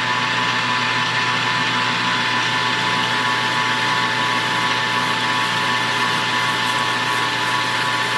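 Metal lathe running at speed: a steady motor whine with a low hum underneath, holding one pitch.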